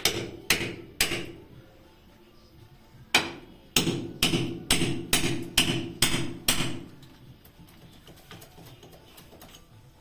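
Hammer blows with a ringing, metallic tone: three strikes, a pause of about two seconds, then eight more at about two a second.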